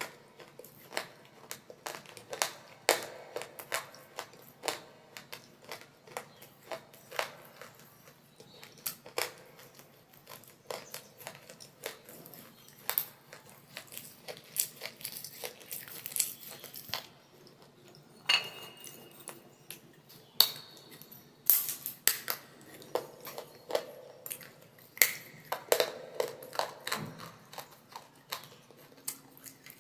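Close-miked crunching and cracking of baked clay (a mini diya and claypot glass) being bitten and chewed, in irregular sharp cracks. A few short ringing clinks come about two-thirds of the way through.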